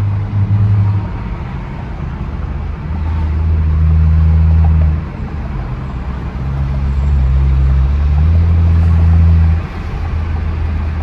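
Straight-piped exhaust of a BMW F10 sedan heard from the moving car, a low drone that swells twice under throttle and drops back sharply about five seconds in and again near the end.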